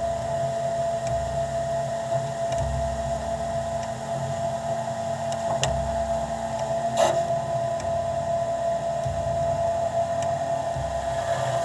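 Harvest machinery running steadily, heard from inside the cab: a constant engine drone with a steady high whine over it, and a brief rushing burst about seven seconds in.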